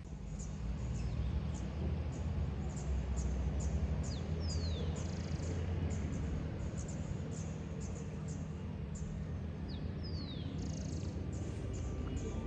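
Outdoor ambience of small birds chirping, with many short high notes and, twice, a call that slides downward in pitch, over a steady low rumble.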